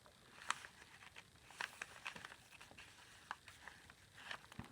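Faint handling of paper journal pages and tags: soft rustling with scattered light clicks and taps.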